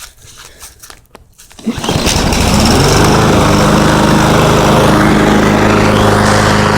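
A small lawnmower engine is pull-started. It catches suddenly just under two seconds in and then runs steadily.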